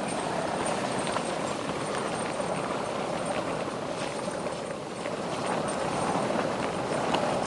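Wind rushing and buffeting against a tent's fabric, a steady noise with a few light ticks.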